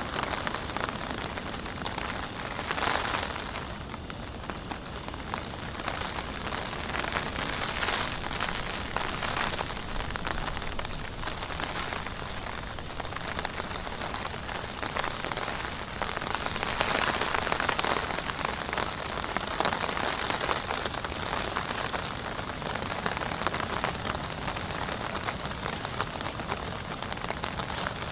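Heavy rain falling steadily as a dense hiss of drops, swelling into heavier downpours every few seconds and most strongly a little past halfway.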